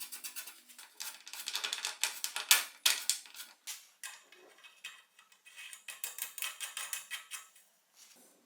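Rapid metallic clicking and ticking from bike parts being worked by hand, in two runs: a long one that stops about four seconds in, and a shorter one a little later.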